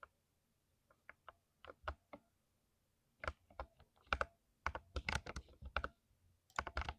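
Keys being typed on a mechanical keyboard with lubricated switches: a few scattered single key presses, then quicker, denser typing from about three seconds in.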